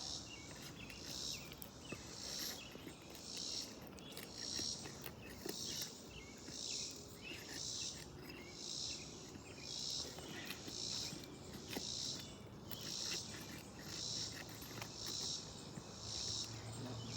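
An insect calling outdoors: a high-pitched buzzy pulse repeating steadily about once a second, with faint scattered clicks beneath it.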